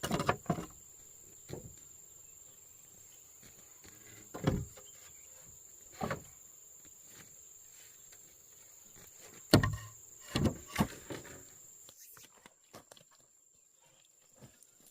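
A steady high insect drone runs throughout, with about seven irregular knocks and thuds of handwork, the loudest about nine and a half seconds in.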